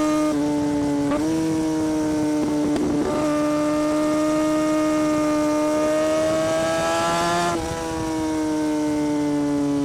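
2017 Kawasaki Ninja ZX-6R's inline-four engine running at high revs under way. The engine note dips and steps back up about a second in, then climbs slowly. About three quarters of the way through it drops with a brief dip in level and keeps sinking slowly as the bike slows.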